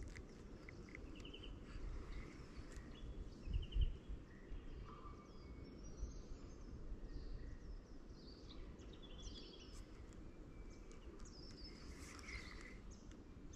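Several small birds chirping and trilling, short calls scattered throughout, over a faint low rumble; a single soft low thump a few seconds in.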